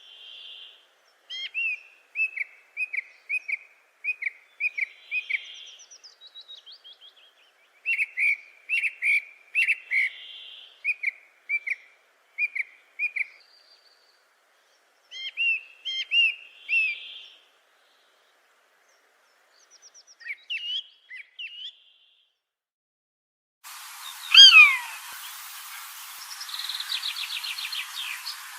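Small birds calling: bursts of short, rapidly repeated chirps with pauses between them. Near the end, over a steady hiss, come loud downward-sliding whistled calls and a fast trill.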